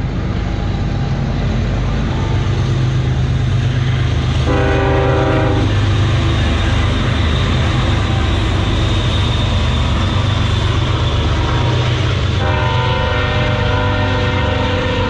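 Train passing, its locomotive engine running with a steady low rumble. The horn sounds twice: a short blast about four and a half seconds in, and a longer one that starts a little after twelve seconds and runs to the end.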